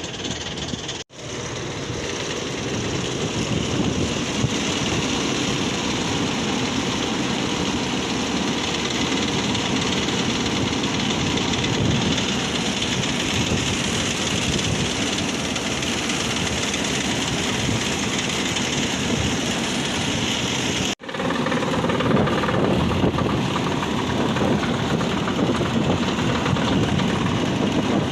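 Strong wind blowing over the microphone, mixed with the steady running rumble of a rooftop exhaust fan. The sound cuts out abruptly for a moment twice, about a second in and again about two-thirds of the way through.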